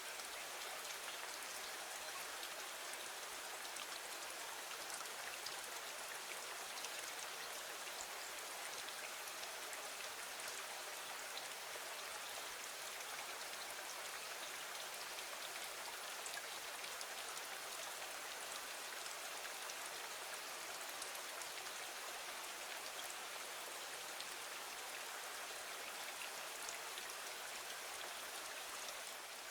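Steady rain on a window, an even hiss of rainfall with many small drops ticking against the glass.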